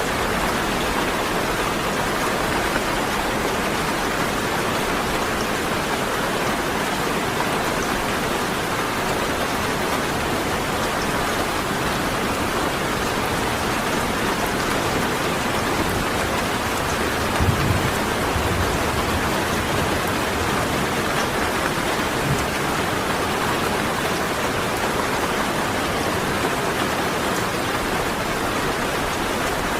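Steady heavy rain falling in a dense even patter. About two-thirds of the way through comes a brief low rumble, slightly louder than the rain, with a smaller one a few seconds later.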